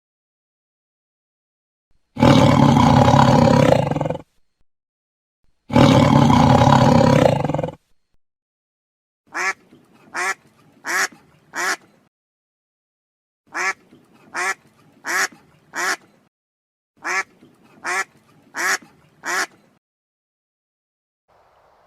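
A tiger roaring twice, each roar about two seconds long, then a duck quacking in three quick runs of four quacks.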